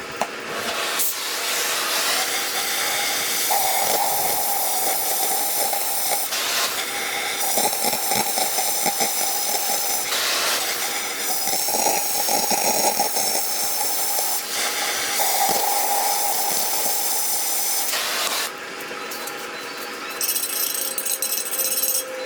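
Oxy-fuel cutting torch cutting through the steel of a drill core barrel: a loud, steady hiss with crackling, briefly interrupted a few times and stopping about 18 seconds in.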